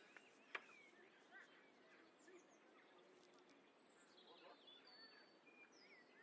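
Near silence with faint birdsong: several birds chirping and whistling in short, rising and falling notes. A single sharp click about half a second in.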